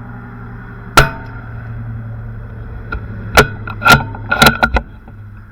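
.22 rimfire rifle shot about a second in, followed a couple of seconds later by a quick series of metallic clicks and clacks as the rifle's action is worked to eject the case and chamber the next round.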